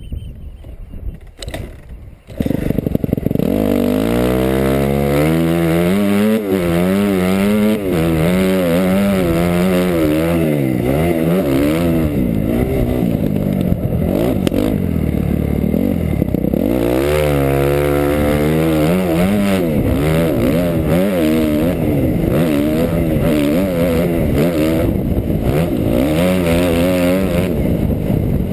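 A 2008 Suzuki RM-Z250's 250 cc four-stroke single-cylinder engine comes in loud about two seconds in. It then revs up and down repeatedly as the dirt bike is ridden hard on sand.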